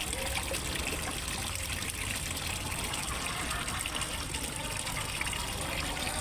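Water splashing and trickling steadily into a fish pond from a small waterfall.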